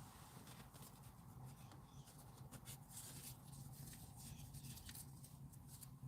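Near silence: faint scattered clicks and rustling over a low steady hum.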